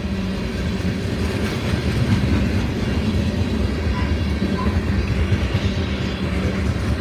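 CSX freight train rolling past close by: a steady loud rumble of steel wheels on the rails with a rapid rattling clatter.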